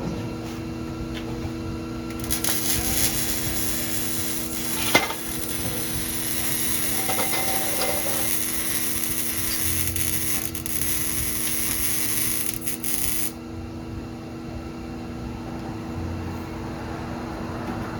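A power tool working on metal exhaust pipe: a harsh, high hissing cut that starts about two seconds in and stops suddenly about eleven seconds later, over a steady low hum.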